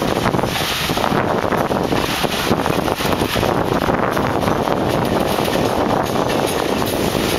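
Open-top freight wagons rolling past close by: a steady rumble and clatter of steel wheels on the rails, with wind noise on the microphone.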